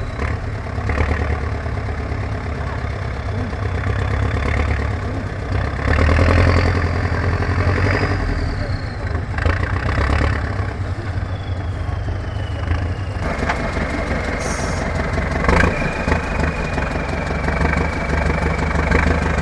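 A competition trial truck's engine running with repeated surges in revs as it works the course. About two-thirds of the way in, the low rumble lightens and a steady high whine comes in.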